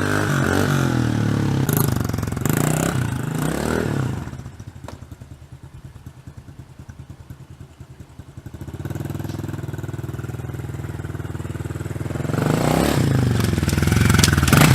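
Dirt bike engine being revved, then dropping to a lumpy, pulsing idle about four seconds in. It settles into a steadier run and revs up louder again near the end.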